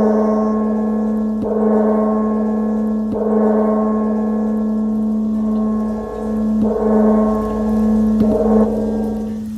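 Handmade metal bell of the singing-bowl kind, struck about six times at uneven intervals. Each strike rings on in one low, steady note rich in overtones, which swells and fades slowly.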